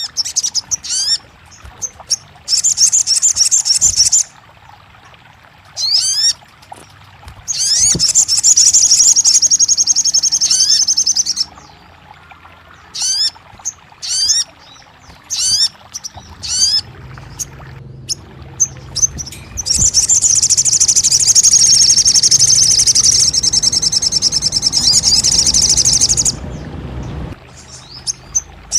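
Sogon birdsong played as a 'therapy' track to provoke a silent bird into singing. It comes in loud, rapid, high trills lasting a few seconds each, separated by series of short, quick, rising chirps.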